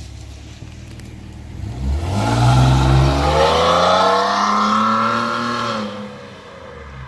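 2017 Nissan Maxima SR's 3.5-litre V6 with the muffler deleted, idling, then revved hard on a full-throttle launch about two seconds in. The pitch climbs and holds high and loud for about four seconds, then falls away as the throttle comes off.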